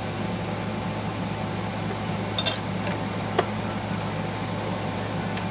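A few small sharp metal clicks from handling the bobbin of a Singer sewing machine: a quick cluster about two and a half seconds in and a single click about a second later, over a steady background hum.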